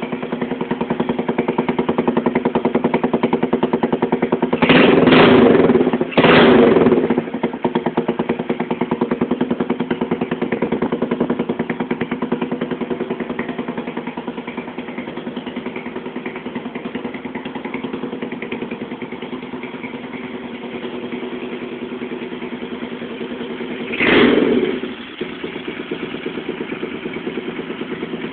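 Yuki Vista 125 scooter engine with a new aftermarket exhaust, idling steadily. It is revved briefly twice in quick succession about five seconds in, and once more near the end.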